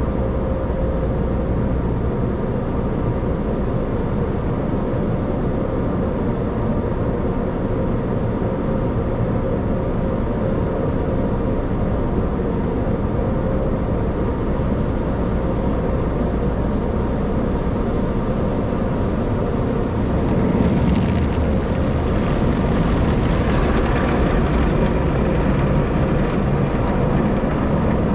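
Car wash machinery running, a steady mechanical drone with a hum. About twenty seconds in, a hissing spray comes in over it and the sound gets a little louder.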